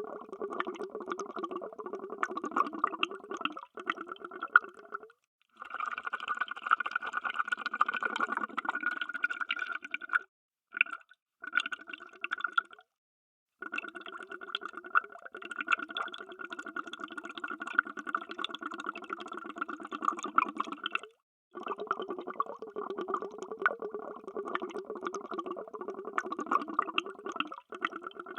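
Underwater bubbles: a dense stream of bubbling and popping that stops for a moment several times, about five, ten to thirteen, twenty-one and twenty-seven seconds in, as one run of bubbles gives way to the next.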